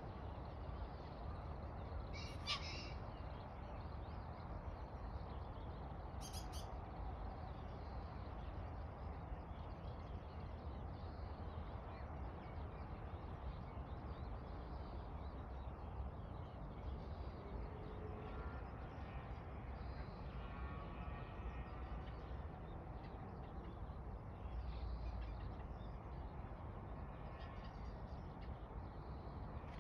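Two short, harsh bird calls about four seconds apart, with fainter bird calls later, over a steady low outdoor rumble.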